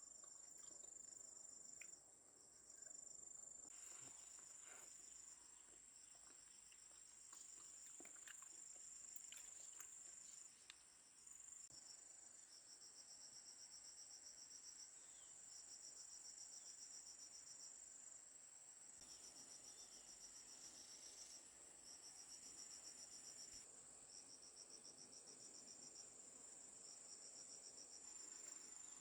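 Insects chirping, faint and high-pitched: one steady trill runs throughout, while another sings pulsed chirps in repeated bursts about a second long. A few soft taps come in the first ten seconds.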